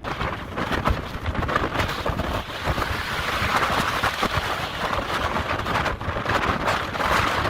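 Storm-force wind buffeting the microphone: a loud, rushing hiss over a low rumble that sets in suddenly and keeps up without letting go.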